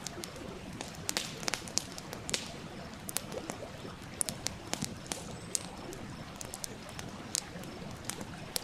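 Wood campfire crackling, with irregular sharp pops and snaps, over the steady rush of a nearby stream.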